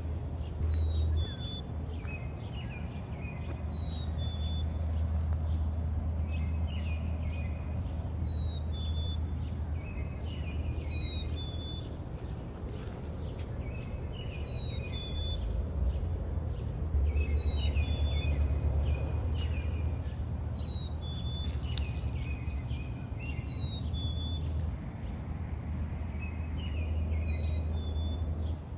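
A songbird singing the same short phrase of high chirping notes over and over, about every two to three seconds, over a steady low rumble.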